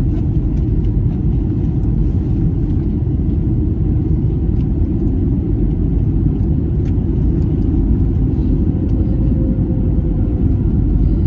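Steady low rumble inside the cabin of an Airbus A321neo airliner during landing, even and unbroken.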